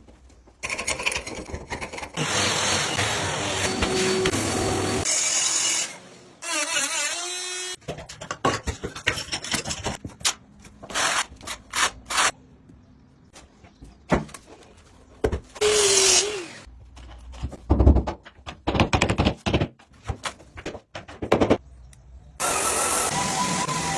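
Parquet floor work: a power tool runs in long steady stretches at the start and again near the end, with a short whining rise and fall around six seconds in. Between them come a series of knocks, thuds and short scrapes of tools on the wooden floor.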